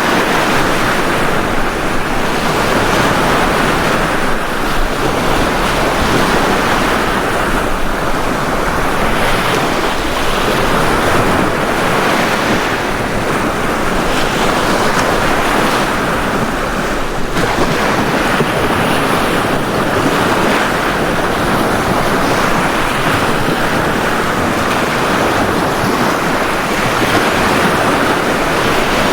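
Ocean waves breaking on a beach in a continuous wash of surf, swelling gently every few seconds.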